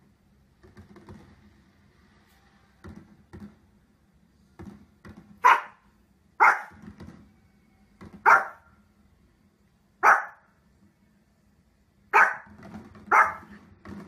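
Small long-haired dog barking: six loud, sharp single barks spaced one to two seconds apart, starting about five seconds in, with a few faint short sounds before them.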